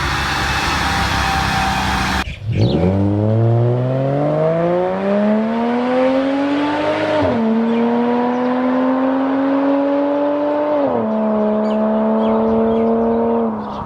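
Subaru EZ30 3.0-litre flat-six engine accelerating through the gears. The engine note climbs steadily, drops at an upshift about seven seconds in, climbs again, drops at a second upshift near eleven seconds, then holds steady. Before it, a short noisy stretch of engine and road sound cuts off abruptly about two seconds in.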